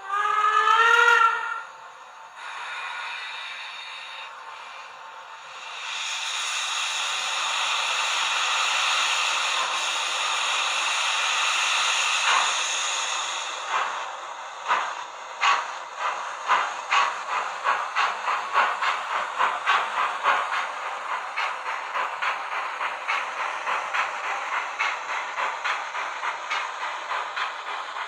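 Model-railway sound decoder (Zimo MX645R with Henning's BR 02 steam locomotive sound) playing through small speakers. It gives a short whistle blast that bends up in pitch, then a long hiss of steam. About 14 seconds in the exhaust chuffs start and quicken into a steady beat of about two a second as the locomotive sets off.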